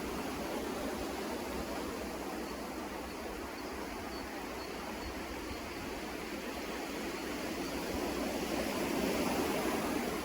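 Sea surf washing on the shore, a steady rush that swells louder near the end as a wave comes in.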